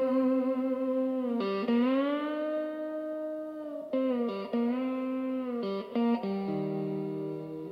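Guitar intro playing long single notes that glide up and down in pitch, with a few short note changes, then settling into a held chord near the end.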